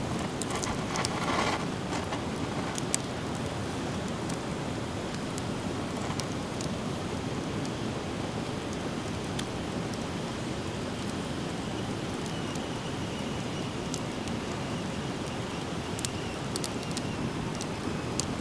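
Driftwood campfire burning, with scattered sharp crackles and pops over a steady rushing noise, and a brief louder rustle about a second in.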